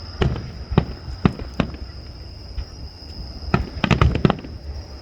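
Fireworks going off: four separate sharp bangs in the first couple of seconds, then a quick run of several bangs about three and a half seconds in. A steady high-pitched whine runs underneath.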